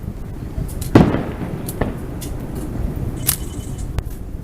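Aerial firework shells bursting: one loud boom about a second in with an echoing tail, then a few smaller bangs and pops.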